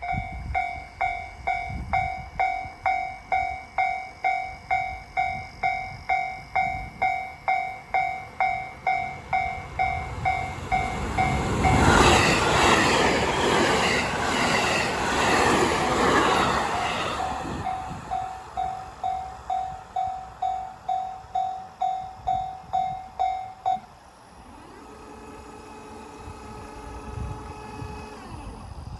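A level-crossing warning bell rings about twice a second as a train rushes past in the middle, loud for about five seconds. The bell stops a few seconds before the end, leaving a fainter rumble.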